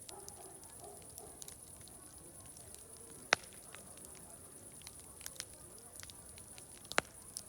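Wood fire crackling with scattered small snaps and two sharp pops, one a little before the middle and one near the end, over faint distant crowd chatter.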